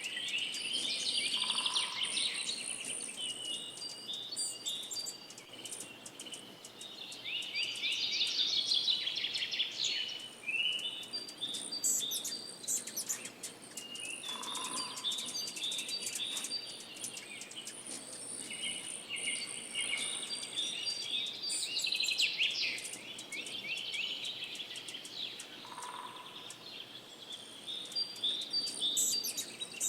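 A songbird singing: a burst of fast trilled phrases every six or seven seconds, with short chirps in between, over a thin, high, steady buzz that comes and goes.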